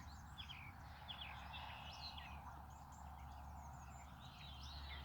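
Faint birdsong outdoors: several small birds chirping and trilling intermittently over a low steady background hum.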